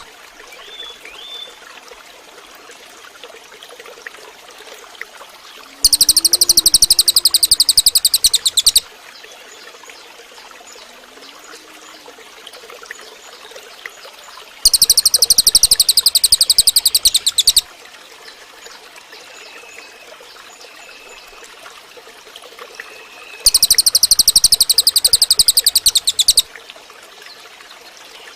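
Cililin songbird song: a loud, very rapid high trill lasting about three seconds, given three times about nine seconds apart. Between the trills are a faint steady hiss and a few faint distant chirps.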